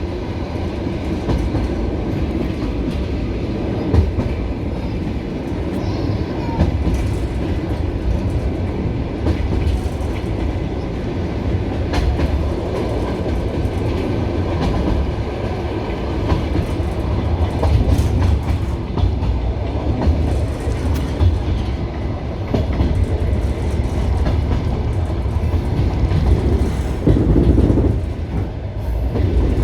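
Passenger train coach running, with a steady rumble and wheels clattering over the rail joints, heard from inside the carriage.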